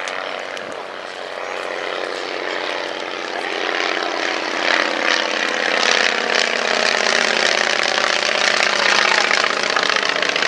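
Piston engine and propeller of a vintage light aircraft flying past, growing louder over the first few seconds and then holding steady, its pitch sinking slightly as it goes by.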